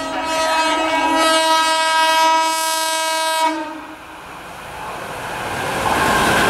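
Indian Railways locomotive horn sounding one long blast that cuts off sharply after about three and a half seconds, followed by the rising rush and rumble of a passing train.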